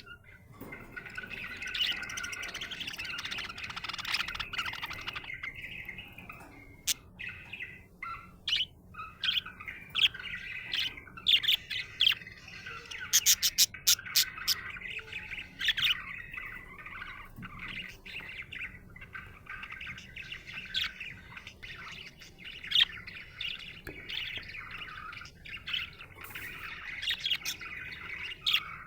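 Budgerigar chirping and warbling in a steady chatter, turning into a stream of short separate chirps and squawks, with a quick run of sharp high chirps about halfway through.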